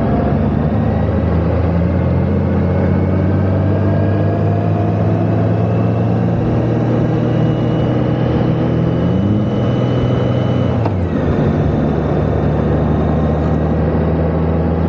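Motorcycle engine pulling under load, its pitch rising slowly for about ten seconds. About eleven seconds in it drops suddenly at a gear change, then holds steady. A constant rush of wind and road noise runs underneath.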